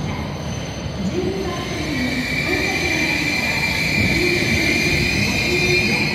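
E6 series Shinkansen train rolling slowly into the platform and braking. A steady high squeal sets in about two seconds in and cuts off near the end as the train comes to a halt.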